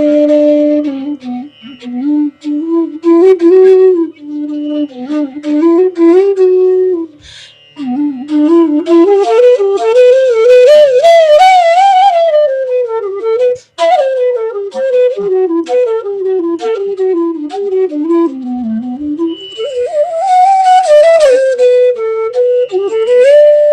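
Bansuri, the North Indian bamboo flute, playing a solo raga melody with bends and wavering ornaments. A short breath pause comes about seven seconds in, then a long phrase climbs high, sweeps back down, and rises again to a held note near the end.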